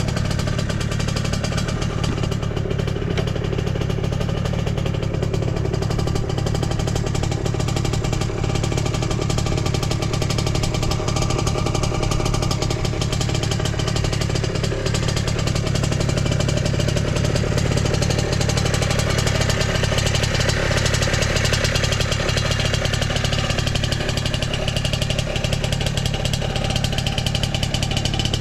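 Two-stroke motorcycle engine idling steadily through a vintage HI-R Hurricane expansion chamber by Osaka Tansha Yohin Kogyo, running cleanly with no abnormal noise.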